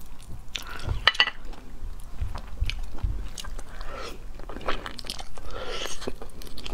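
Close-up chewing and biting of cooked sea snail meat, wet mouth sounds with scattered short sharp clicks, as the meat is pulled from the shell by hand and eaten.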